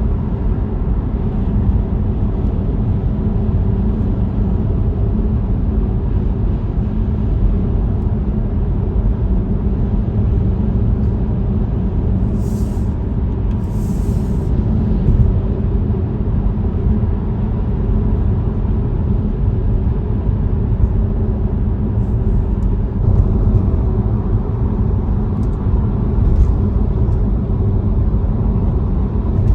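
Steady low road and tyre rumble inside the cabin of a Tesla Model Y at driving speed, with no engine note from the electric drivetrain. Two short hisses come near the middle.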